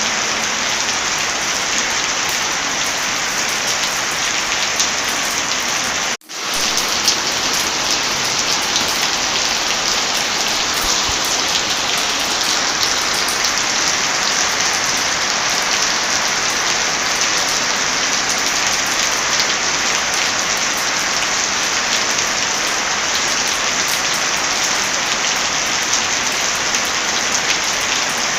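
Steady heavy rain, a dense even hiss of falling drops. About six seconds in the sound cuts out for a split second and comes straight back.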